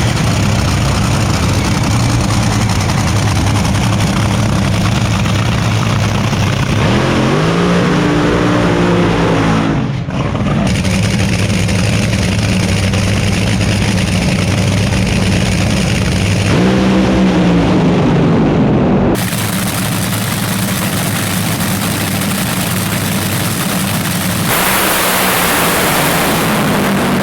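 Drag racing car engines running loud and rough, with two revs that rise and fall in pitch. The sound changes abruptly several times; after about two-thirds of the way through the deep rumble drops out, leaving a steady roar.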